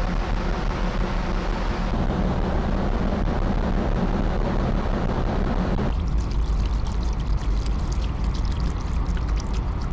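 Car ferry under way: a steady low engine drone with water rushing past the hull. About six seconds in the rushing cuts off suddenly, leaving the drone with faint crackling.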